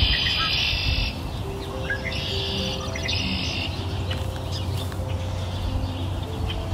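Birds chirping in a nature-ambience track, with high trilling bursts about a second long at the start and again around two to three seconds in, over a steady low rush. Soft music with sustained single notes plays underneath.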